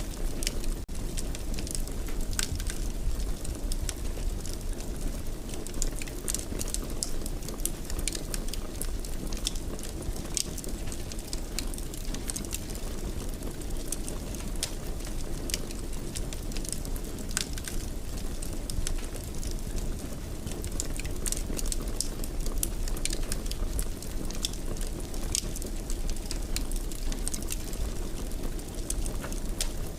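Fire burning in a fireplace, with frequent irregular crackles and pops over a steady low rumble.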